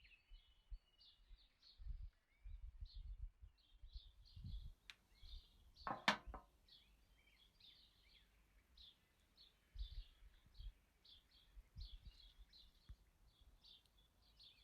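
Small birds chirping over and over in short high notes, faint, with scattered low thuds and one sharp click about six seconds in.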